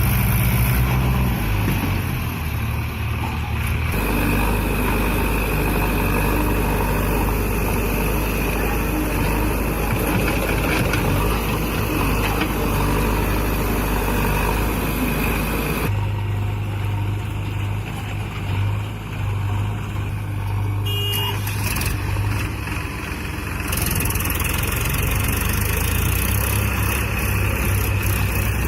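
Powertrac tractor's diesel engine running hard under heavy load in mud. The sound changes abruptly three times, at about 4, 16 and 24 seconds in.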